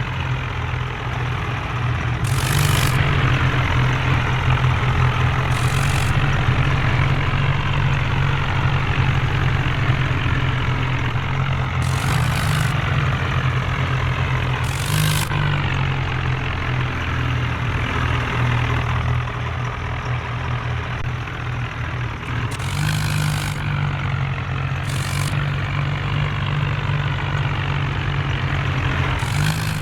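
Tractor diesel engines running steadily under heavy load, a low drone whose pitch shifts slightly now and then. Several short sharp hisses cut in over it, about seven in all.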